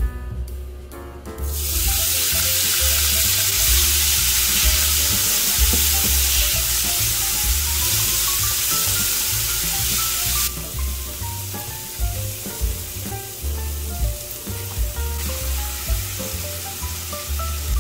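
Crumbled firm tofu sizzling in hot oil in a nonstick frying pan as it is stir-fried with a spatula. The sizzling starts suddenly about a second and a half in and eases a little after about ten seconds. Background music plays underneath.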